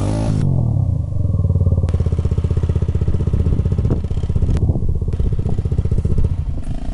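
Single-cylinder four-stroke trail motorcycle engine running with a fast, even exhaust beat; its revs fall just at the start, then hold steady.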